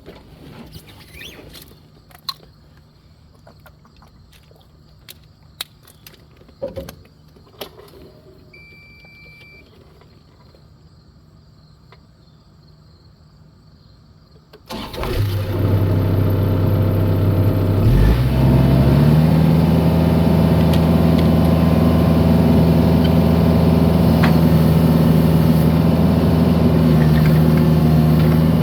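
A few light clicks and knocks and a short beep, then about halfway through a mini excavator's engine starts and runs. A few seconds after starting it is throttled up to a higher, steady pitch and holds there.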